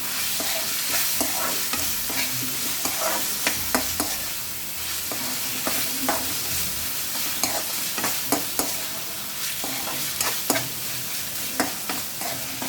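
Chicken frying with masala in a kadai, sizzling steadily, while a spatula stirs it and scrapes and knocks irregularly against the pan.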